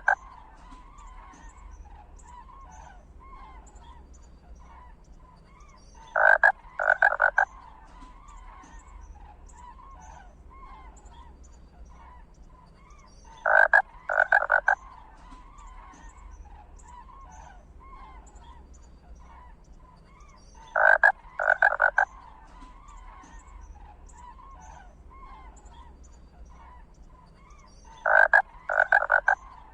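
Animal calls: a cluster of three short, loud calls comes back about every seven seconds, four times. Under them runs a steady chorus with faint high chirps.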